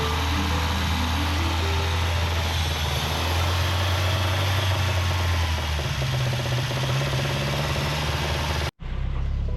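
A 1983 Mazda B2000's four-cylinder engine running at a steady idle. The sound drops out abruptly for a moment near the end.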